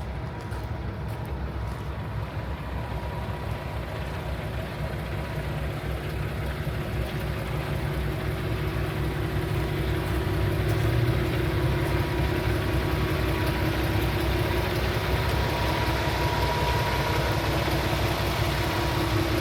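Paccar MX-13 inline-six diesel engine of a Peterbilt 579 semi tractor idling steadily, growing louder a few seconds in and then holding level.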